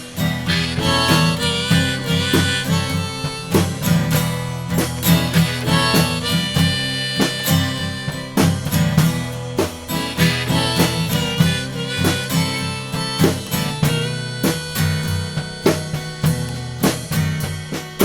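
Instrumental break in a blues-rock song: a harmonica solo over guitar and a drum kit.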